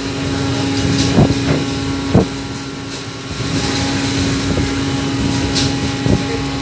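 Fishing boat's engine running with a steady hum under a wash of wind and water noise, with three short knocks about one, two and six seconds in.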